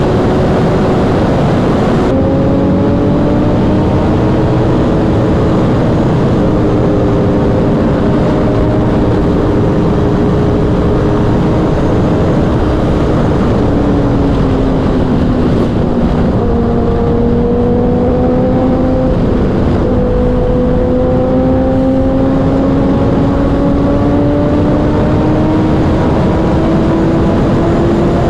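Kawasaki inline-four sportbike engine running at highway speed under heavy wind rush. The engine note holds fairly steady, drops about halfway through, then rises slowly as the bike pulls again.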